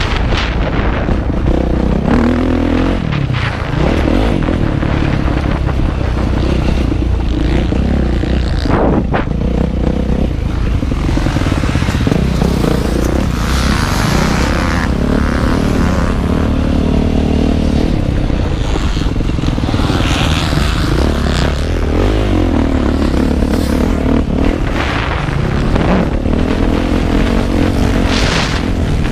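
Motocross motorcycle engine heard from on board while riding a track, its pitch rising and falling over and over as the throttle opens and closes, with wind rushing over the microphone.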